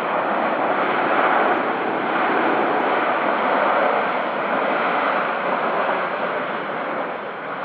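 Airliner's engines passing close by: a loud, even rush that swells, holds for several seconds and fades near the end.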